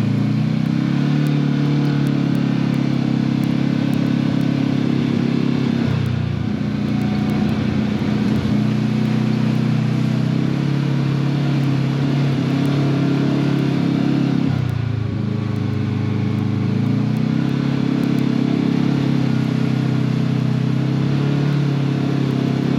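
Side-by-side UTV engine running steadily on a trail ride. Its pitch drops twice as the throttle eases off, then climbs back up each time.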